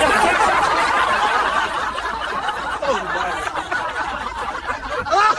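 Several people laughing together, loudly and without a break.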